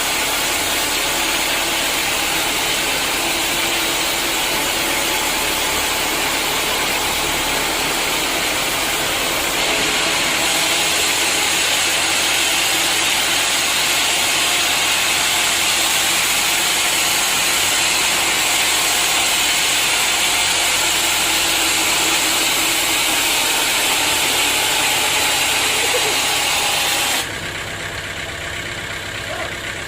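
Sawmill machinery running steadily with a dense, hissing machine noise. It grows louder about a third of the way in and drops off suddenly near the end.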